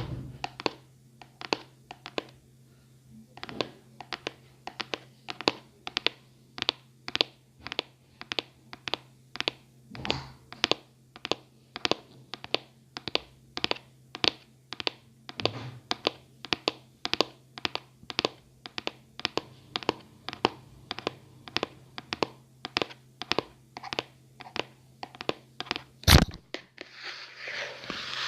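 ASMR tapping: steady fingertip or nail taps on an object, about two a second, with one sharp, much louder knock near the end, followed by scratching.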